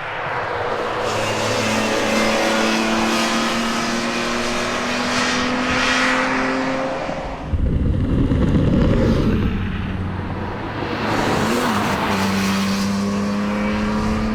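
BMW E46 M3's S54 straight-six engine under hard acceleration, its note climbing steadily through the revs. About halfway through, a loud low rumbling rush covers it for a couple of seconds before the engine note rises again.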